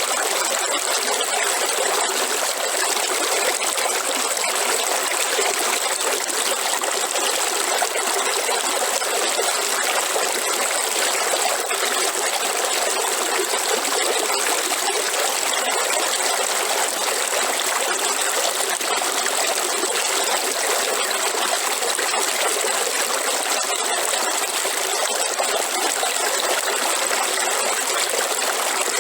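Waterfall: water falling and rushing in a steady, unbroken flow.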